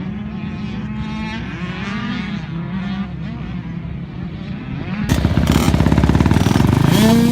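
Dirt bike engines revving as they ride the track, their pitch rising and falling. About five seconds in, a much louder, closer dirt bike engine takes over, running hard.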